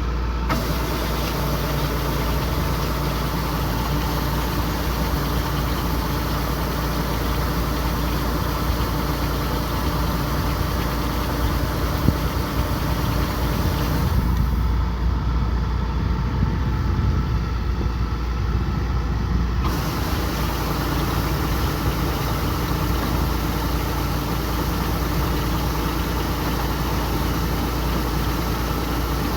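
Kubota combine harvester running steadily: a low engine drone under a constant broad hiss, with the high part of the hiss thinning for about five seconds just past the middle.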